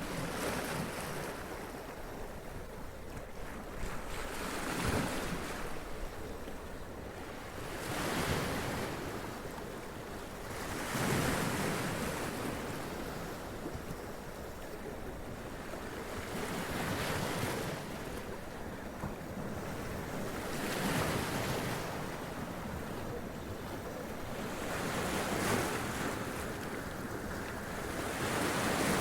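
Sea waves splashing against and running up rocks, each wave a surge of noise arriving about every three to four seconds over a continuous wash of surf.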